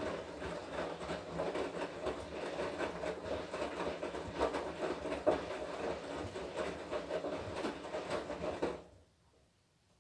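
Washing machine running its wash cycle, the drum turning and tumbling wet clothes with a steady clatter of small knocks. The drum stops suddenly near the end, leaving near silence.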